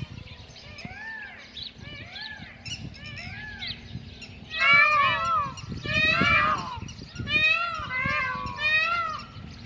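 A flock of Indian peafowl calling: short, repeated rising-and-falling calls at first, then louder, longer honking calls from several birds about halfway through. Wind rumbles on the microphone underneath.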